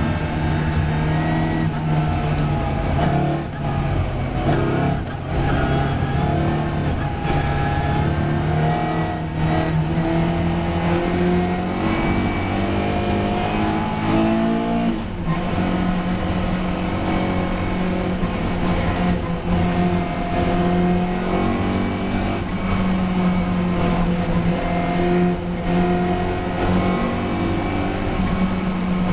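Historic touring race car's engine running hard at racing speed, its pitch climbing and stepping with gear changes, with a marked falling sweep about fourteen seconds in as the engine comes off the throttle and shifts down.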